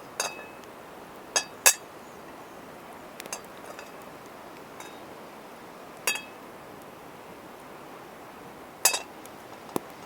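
Camp cookware or utensils being handled: a series of sharp, separate clinks with brief ringing, about seven strokes spread irregularly, with a few fainter ticks between.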